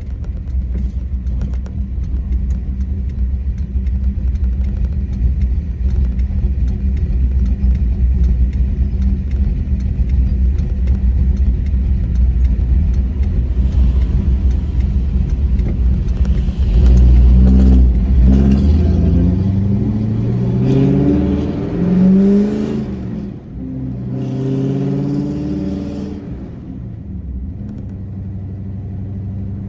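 1987 Ford F-150's engine running steadily, then accelerating hard from about halfway through: the pitch climbs, drops back once as the gear changes, climbs again and eases off near the end.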